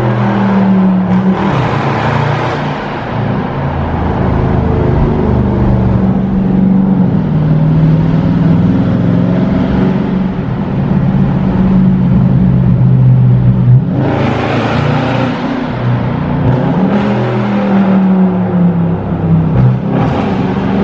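Dodge Charger Scat Pack's 6.4-litre HEMI V8 running under way, its pitch slowly rising and falling as it is driven. It gets louder and brighter for a few seconds about two-thirds of the way through, and again near the end.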